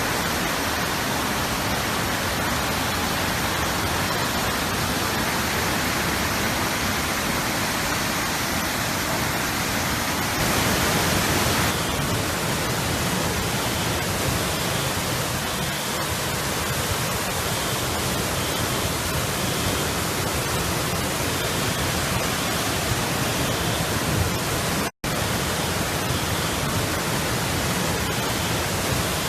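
Floodwater rushing through a street in a flash flood: a steady, loud roar of water with no let-up. The sound swells briefly about ten seconds in and cuts out for an instant near the end.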